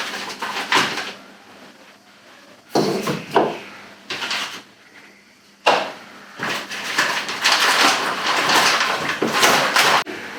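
Knocks, rattles and rustling of things being handled and moved in a small room, with a sharp bang about five and a half seconds in.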